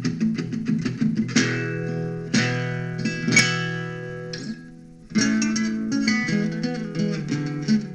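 Guitar instrumental: quick picked notes, with strummed chords ringing out about one and a half and two and a half seconds in, then rapid picking resuming after a brief dip around five seconds.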